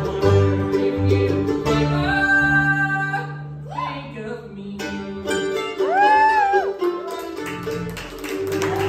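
A bluegrass band playing live on plucked strings, banjo among them, over a walking low bass line. A high held note slides up and bends about two thirds of the way through.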